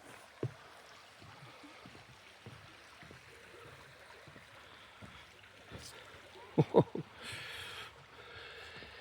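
A stream running with a steady hiss. About two-thirds through, a quick run of three dull thumps stands out above it.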